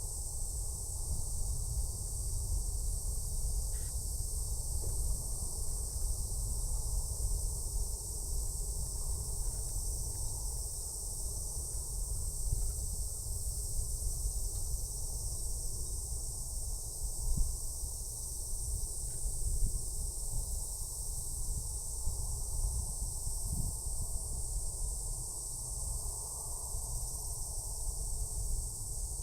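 Steady high-pitched insect chorus, over a constant low rumble.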